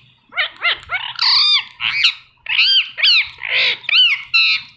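Ringneck parrot talking: a run of short, high-pitched mimicked syllables with brief pauses between phrases.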